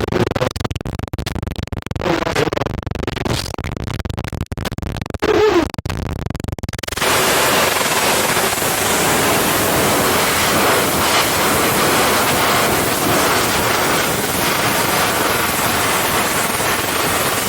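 Choppy, crackling noise with a few short muffled tonal blips, then about seven seconds in a sudden switch to loud, steady TV static hiss.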